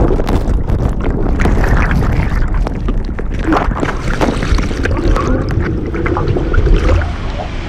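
Roaring whitewater of a large waterfall, with heavy wind buffeting an action camera's microphone. The noise eases a little about seven seconds in.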